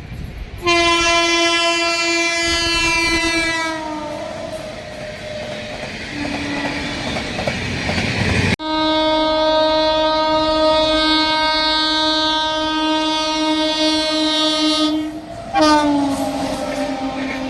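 Indian Railways locomotive horns sounding as express trains pass. A long blast drops in pitch as the train goes by, followed by a short toot. Then, after a sudden cut, comes a steady blast of about six seconds, and another whose pitch falls as it passes, over the rumble of the moving train.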